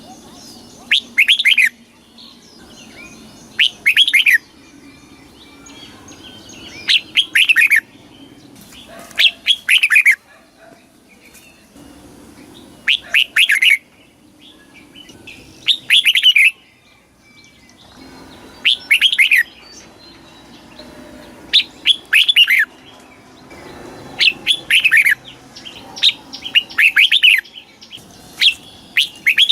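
Red-whiskered bulbul singing short, loud phrases of quick falling whistled notes, about every two to three seconds.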